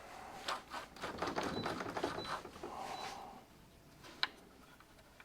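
Small metal clicks and taps as the steel balls and slide-track parts of a truck seat base are handled and fitted, in a quick, uneven run for about three seconds, then one sharp click after about four seconds.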